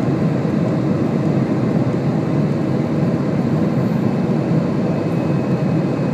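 Steady drone of an Airbus airliner's Rolls-Royce jet engines and rushing air, heard from inside the passenger cabin, even and unchanging.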